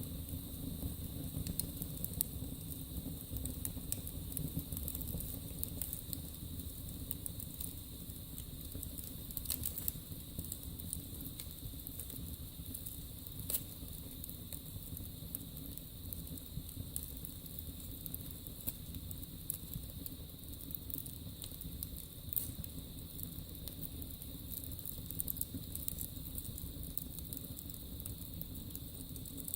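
Wood burning in a fireplace: irregular crackles and sharp little pops over a steady low rushing noise.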